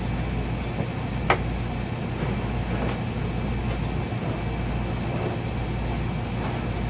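Steady low mechanical hum of background shop machinery, with one sharp click about a second in and a few faint ticks as metal parts of the bead breaker are handled and fitted.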